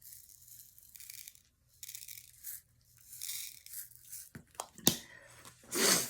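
Crinkly material being handled: rustling and crinkling in several short bursts, with a couple of sharp clicks just before the fifth second and a louder rustle near the end.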